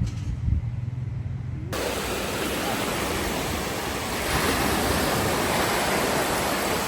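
Surf washing onto a beach: a steady rush that swells louder about four seconds in. Before it, for under two seconds, a low rumble that cuts off abruptly where the surf sound begins.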